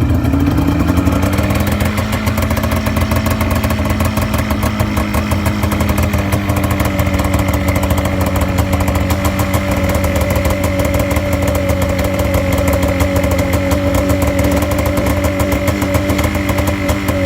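Snowmobile engine just after starting: its speed climbs and settles over the first couple of seconds, then it runs steadily.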